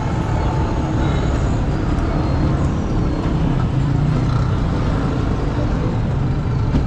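Busy street traffic: a steady din of vehicle engines and road noise.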